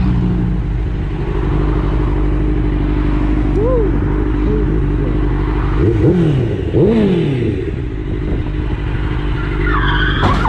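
A vehicle engine running with a steady drone, with two short falling sweeps in pitch about six and seven seconds in.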